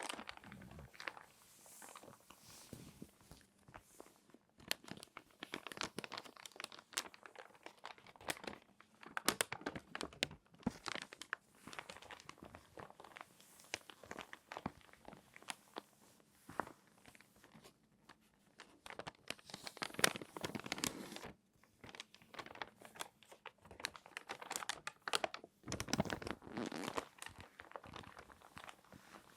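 Crinkly glossy magazine pages being folded and creased by hand, close up: irregular soft crackles and sharp paper snaps, with a few denser bursts of crinkling.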